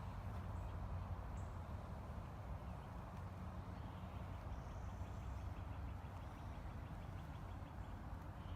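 Quiet outdoor background with a steady low hum and faint noise, with a few faint ticks.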